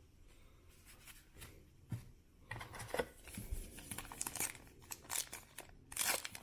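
Foil baseball card pack wrapper being torn open and crinkled: a few light clicks, then crackling from about halfway through, growing louder near the end.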